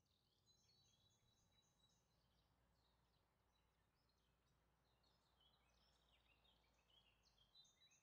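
Near silence, with faint high chirps of birdsong.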